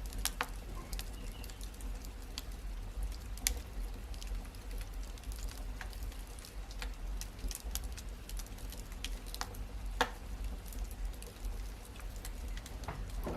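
Wood fire crackling: irregular sharp pops and snaps over a low steady rumble, with two louder pops, one a few seconds in and one about ten seconds in.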